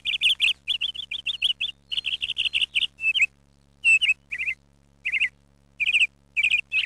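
A small songbird chirping in quick runs of high, rapid notes, several notes per burst, with short pauses between bursts.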